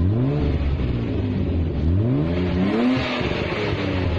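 BMW E36's 2.5-litre straight-six revved twice from idle, a quick blip at the start and a longer rev about two seconds in, each dropping back to idle. The exhaust is blowing through a cracked, leaking rear muffler.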